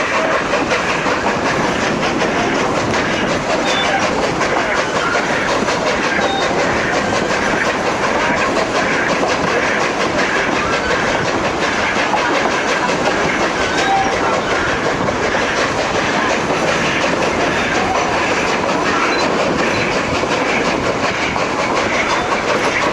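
Durango & Silverton narrow-gauge passenger train rolling along the track, heard from on board: a steady noise of wheels on rails with a dense run of small clicks and rattles.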